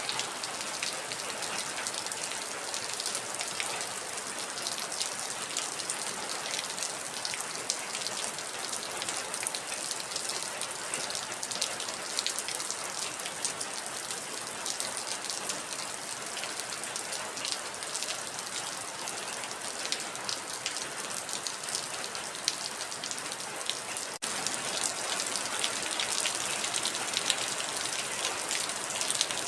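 Heavy rain falling steadily: a dense hiss made of countless separate drop hits. About 24 seconds in it cuts out for an instant and resumes slightly louder.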